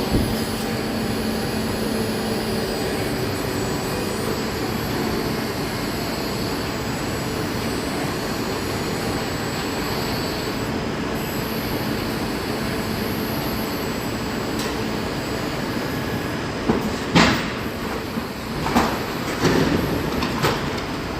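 Heavy vehicle machinery running steadily, with a run of loud knocks and bangs in the last few seconds, as a 40-tonne truck is being loaded.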